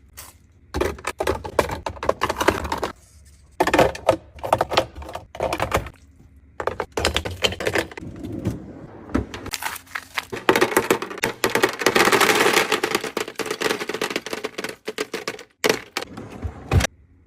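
Rapid clicks, taps and clatter of plastic containers, lids and packaging being handled. Partway through comes a longer stretch of steady rustling noise, and a few sharp knocks come near the end.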